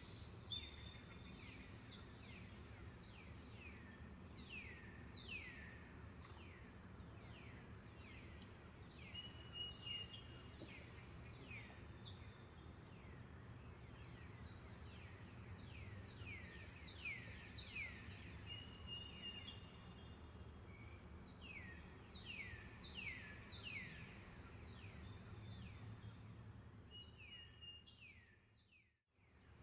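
Forest birds calling with many quick notes that slide downward in pitch, over a steady high insect-like tone and a low even hiss of flowing water. Near the end the whole soundscape fades briefly to silence and comes back.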